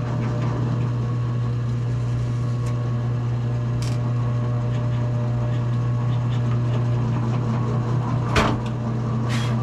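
Drill press motor running steadily while a pilot bit is fed slowly through a guitar body and its back template. Two short knocks sound near the end.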